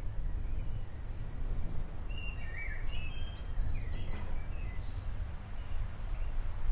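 Steady rain, with a few short bird chirps between about two and four and a half seconds in.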